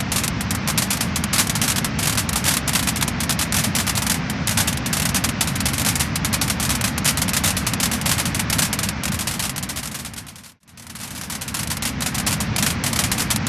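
Wood-burning fire crackling and popping in a dense run of sharp snaps over a steady hiss. About ten and a half seconds in, it fades out to near silence for a moment, then fades back up.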